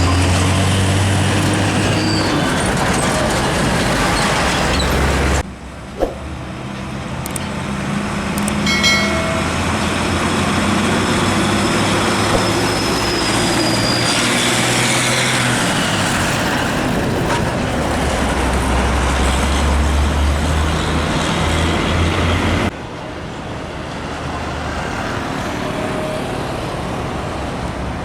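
Heavy diesel trucks driving past on a road, engines running with a steady low drone, broken by two sudden drops in level where the recording cuts to another passing truck.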